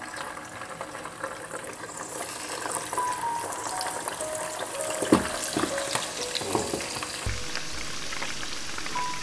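Beef tripe deep-frying in a small saucepan of hot oil: a steady sizzle full of small crackles that grows livelier about two seconds in, with one sharp pop about five seconds in.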